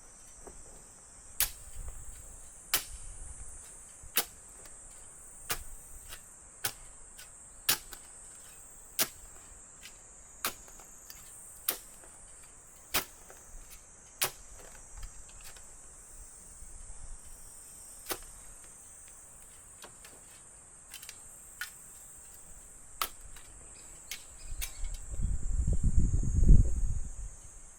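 A steady high insect drone with a sharp click repeating about every second and a half, the clicks thinning out after about halfway. Near the end a loud low rumble comes in for a couple of seconds.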